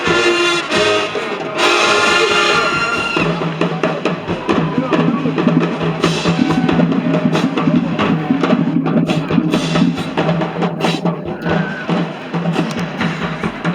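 High school marching band playing in the stands. The brass hold a loud chord for about the first three seconds, then the drumline and percussion take over with a busy drum beat under a steady low note.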